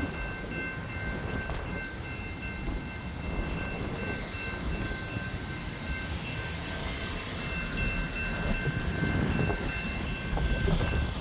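Siemens Nexas electric suburban train running through a level crossing, a continuous rumble that grows louder about eight seconds in, with the crossing's warning bells ringing as steady high tones over it.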